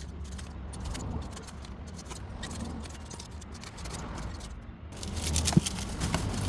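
Paper rustling and crackling as pages of an old book are cut into strips, with scattered light clicks that get louder and busier near the end, over a steady low rumble.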